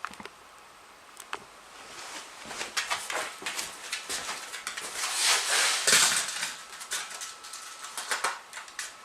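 Smooth fox terrier's claws clicking and scrabbling on a hard floor as it tussles with a toy, with a louder rustling scuffle about five to six seconds in.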